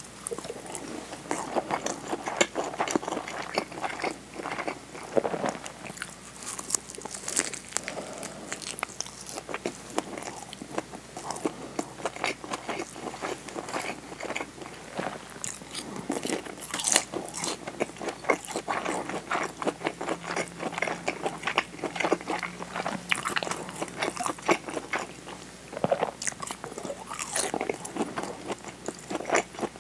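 A person chewing and biting mouthfuls of rolled omelette and a nori-wrapped rice ball close to a clip-on microphone: a dense, irregular run of short crisp clicks and smacks.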